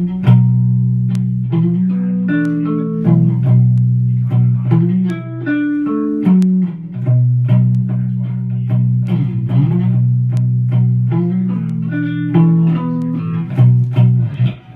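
Heavy blues riff played on guitar: low plucked notes held and changed every second or so, with higher picked notes above them.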